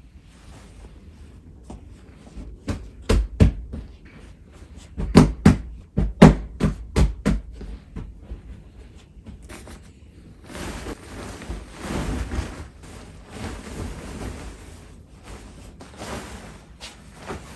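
A series of sharp knocks, loudest in a quick run about five to seven seconds in, followed by several seconds of a steady rushing hiss.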